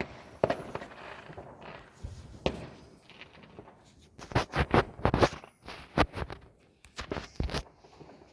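New Year's Eve fireworks and firecrackers going off: irregular sharp bangs, thickest about four to five seconds in.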